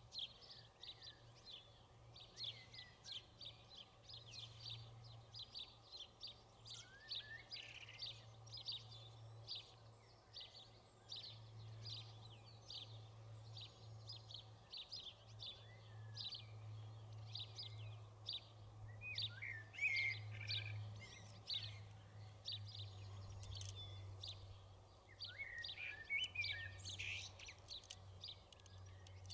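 Birds chirping repeatedly in quick short notes, with a few sliding calls, over a faint steady low hum.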